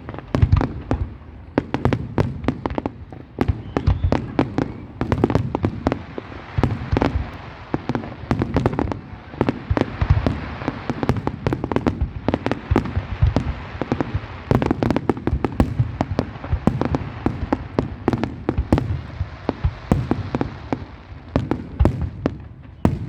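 Fireworks display: many aerial shells bursting in quick, overlapping bangs, thickest in the middle stretch where the bursts merge into a continuous crackle.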